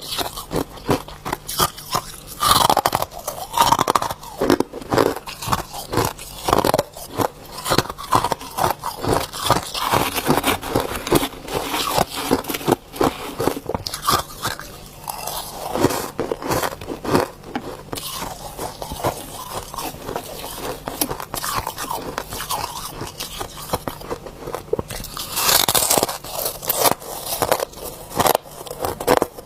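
Ice being bitten and chewed close to the microphone: a dense run of irregular crunches and crackles, with a few louder bites.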